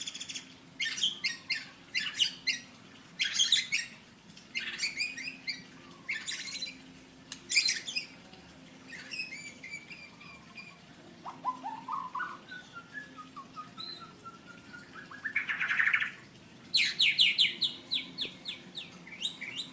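Male white-rumped shama singing courtship song to a female: a string of short, varied phrases of whistles and chattering notes, a slow rising run of notes in the middle, a brief harsh buzz, then quick repeated notes near the end.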